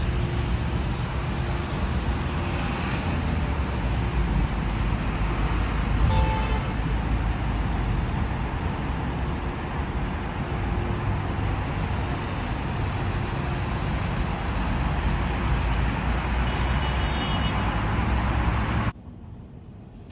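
Road traffic: a steady rush of vehicle noise with a heavy low rumble, cutting off suddenly to a much quieter background about a second before the end.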